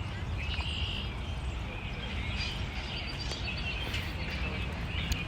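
Outdoor ambience: small birds chirping repeatedly over a steady low background rumble.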